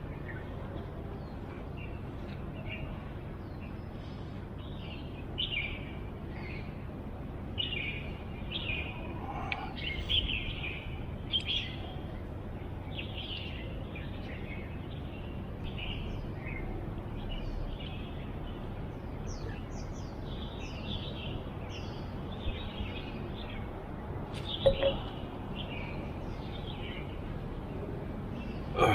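Birds chirping, many short chirps over a steady low background noise, with a brief knock near the end.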